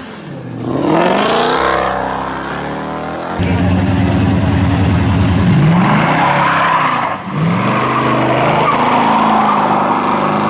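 Big V8 muscle car engine revving and accelerating hard, its pitch climbing several times and dropping briefly about seven seconds in before climbing again, with tyre squeal over the later part.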